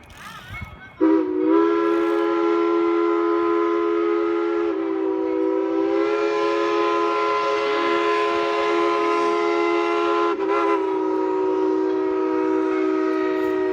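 A steam locomotive's multi-note chime whistle blowing one long, loud blast of about thirteen seconds. It starts about a second in, and its pitch wavers briefly twice along the way.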